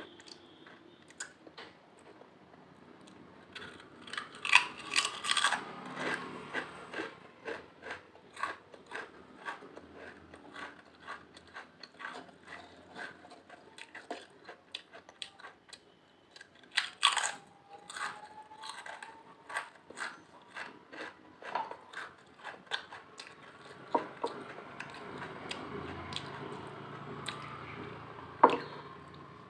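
Close-up crunching and chewing of potato chips: rapid crisp cracks, with louder bites coming in clusters a few times.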